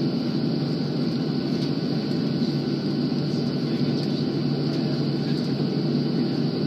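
Steady jet engine and airflow noise of an airliner, heard from inside the passenger cabin during takeoff: a low, even rumble with no change in level.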